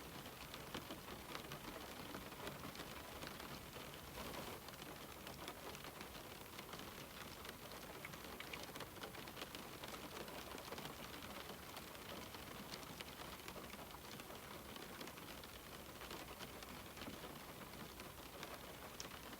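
Steady rain falling on a window pane: an even hiss scattered with many small drop ticks.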